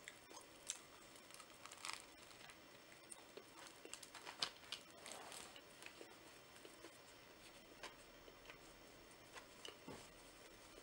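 Faint eating sounds: a bite into a crusty banh mi baguette, then chewing with small crackles of crust and soft mouth clicks, busiest a little after the middle. A paper napkin rustles near the end.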